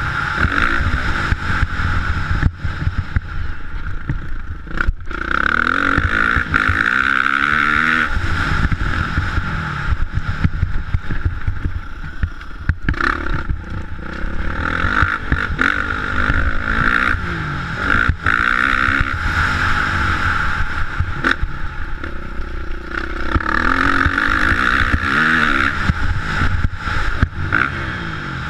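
Off-road motocross bike engine revving up and falling back over and over as the bike is ridden, with occasional sharp knocks.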